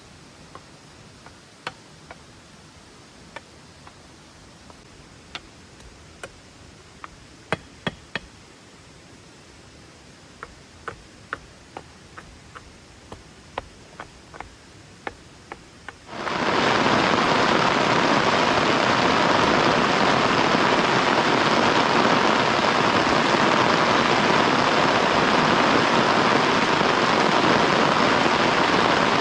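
Scattered sharp taps, like single drops landing, over a faint hiss. About halfway through, heavy rain starts suddenly and goes on as a loud, steady downpour.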